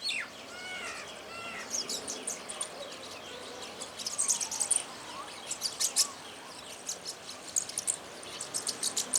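A group of small songbirds chirping and twittering: a few arching calls in the first second or so, then a run of many short, high chirps.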